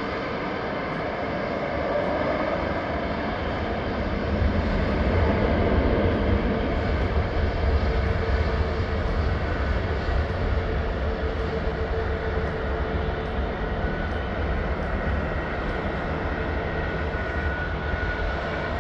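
Fixed-wing airplane's engine running steadily with a continuous drone, swelling to its loudest about five or six seconds in and then holding steady.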